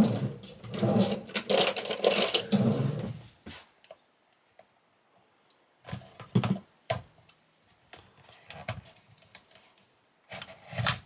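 Handling noise from a high-voltage connector being worked loose from a junction box to release its lock: about three seconds of rattling and clicking, a short lull, then a few sharp clicks and knocks.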